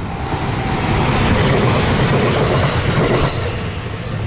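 Two-car JR West 521 series electric train passing close by, its wheels running on the rails. The sound swells to its loudest about a second or two in and eases off as the train goes by.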